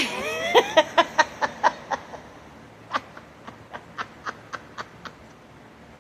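A woman laughing: a rising-and-falling voiced start, then a quick run of 'ha' pulses about five a second that dies away, and a second, quieter run of chuckles starting about three seconds in.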